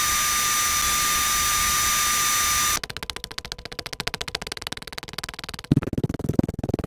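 Sound effects played back to back at ten times speed. A steady hiss with held high tones lasts nearly three seconds, then gives way to a rapid run of fast clicks, and near the end to louder choppy bursts.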